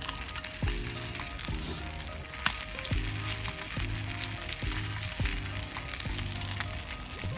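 Food frying in a hot pan: a steady sizzle with occasional sharp pops, the loudest about two and a half seconds in. A background music track with a bass beat plays underneath.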